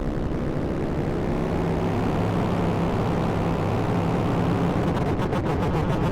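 Modular synthesizer noise patch: a sample-and-hold circuit stepping a triangle-wave oscillator's pitch, the filter cutoff and a wavefolder, fed through a delay with feedback, making a dense, noisy drone. About a second before the end a fast, even stuttering pulse comes in.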